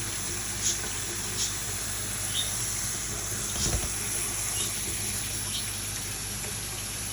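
Tap water running steadily, with short light splashes about once a second as a conure bathes in the stream on a person's hands.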